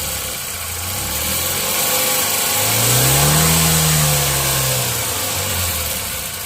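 Tata Nano's two-cylinder petrol engine idling, then revved once in the middle, its pitch rising and falling back to idle over about two seconds. Only a faint jingle from the catalytic converter's heat-shield plate, whose joint has broken, is heard over the engine at this moment.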